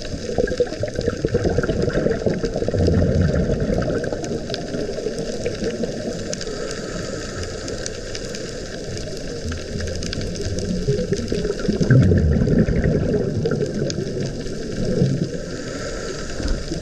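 Water noise heard underwater: a muffled, irregular rumbling and sloshing with scattered faint clicks, swelling louder twice.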